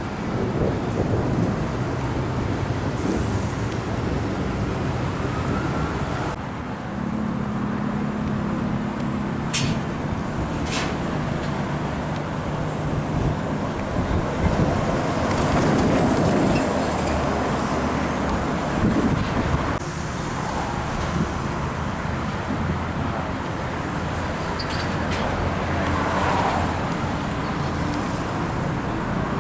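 Road traffic with heavy diesel trucks driving past, their engines running at steady pitches that come and go over a constant tyre and traffic noise. Two sharp clicks come about ten seconds in.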